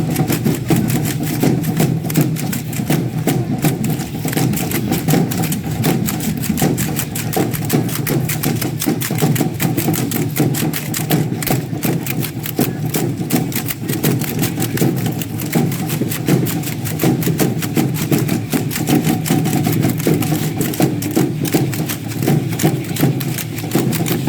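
Fast, continuous rattling of matachines dancers' sonajas and stamping feet over a steady low drone of drum and music.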